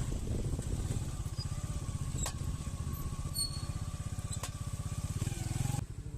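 Small motorcycle engine of a habal-habal motorcycle taxi running with a fast, even pulse. The sound changes abruptly near the end.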